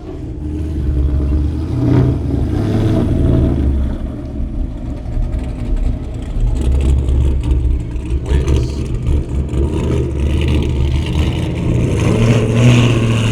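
Car engines running with a deep, low rumble that rises and falls.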